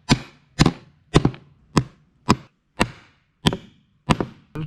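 Nine sharp knocks at an even pace of nearly two a second, wood being struck while the binding hardware is fitted to a plywood wakeboard disc.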